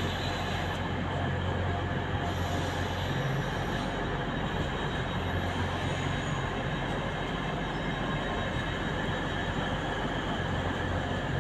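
A train rolling slowly through the station tracks, heard from on board: steady running noise with a low hum and a thin high wheel squeal.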